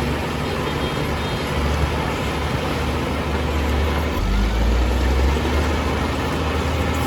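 Heavy diesel engine of earthmoving machinery running steadily, getting louder about four seconds in.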